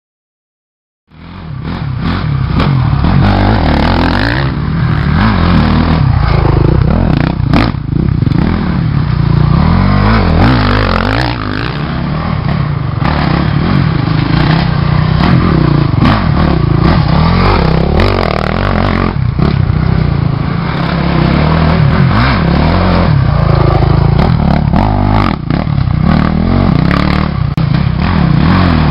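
Motorcycle engine running and revving through gear changes, with a heavy low rumble and frequent sharp knocks and clicks, starting suddenly about a second in.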